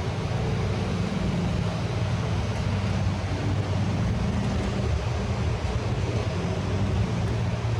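Street ambience dominated by a steady low mechanical hum, with a constant wash of traffic-like noise.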